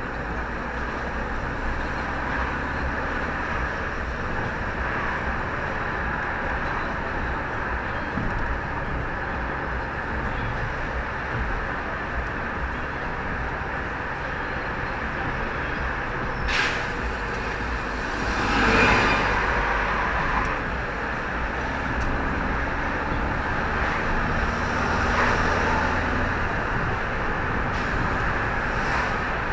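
Steady road-vehicle noise: a low engine and road rumble. About two-thirds of the way in there is a sharp click, then a louder rushing swell that falls in pitch.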